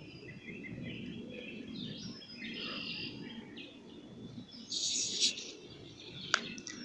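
Birds chirping over steady outdoor background noise, with a short, loud hiss about five seconds in and a single sharp click near the end.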